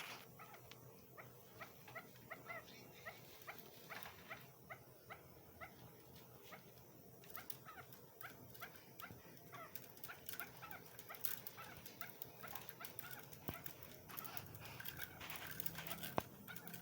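Chukar partridge calling faintly: runs of short, rising clucking notes, a few a second, repeated again and again.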